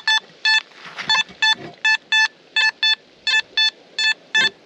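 Nokta Makro Simplex metal detector with a Detech Ultimate 13 coil giving a rapid run of short beeps, all at the same pitch and mostly in quick pairs, as the coil is swept over the beach. These are non-repeatable signals that change tone and break up, from bits of coke, coal and hot rocks rather than a target worth digging.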